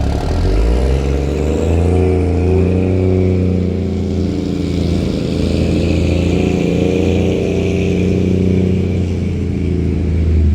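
Cummins M11 inline-six diesel of an International 8100 dump truck pulling under load. The engine note rises over the first couple of seconds, then holds a steady drone.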